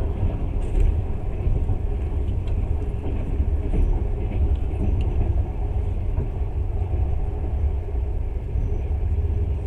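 Passenger train running at speed: a steady low rumble of the wheels and carriage.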